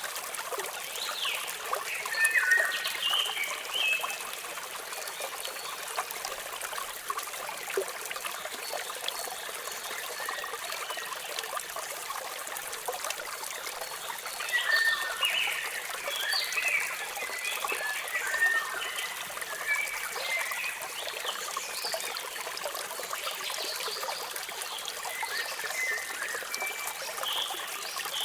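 Steady rush of falling water from a waterfall, with birds chirping in clusters of short calls near the start, through the middle and again near the end.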